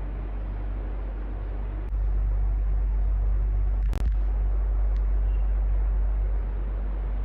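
Electric fan running steadily: an even whooshing with a strong low hum that swells about two seconds in and eases back near the end. A single sharp click about four seconds in.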